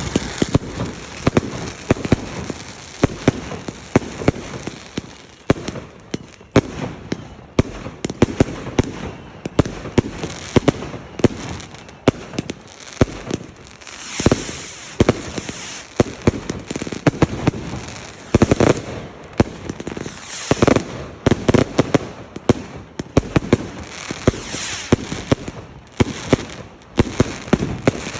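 Fireworks going off continuously, a dense run of sharp bangs and crackles several times a second, with heavier clusters about halfway through and again in the last third.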